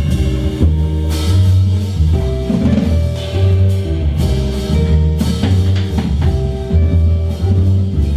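Jazz band playing an instrumental passage with bass, chords and drum kit, without vocals.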